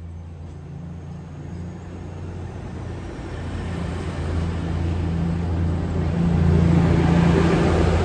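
Diesel train drawing nearer through the station, its engine hum and running noise growing steadily louder and loudest near the end.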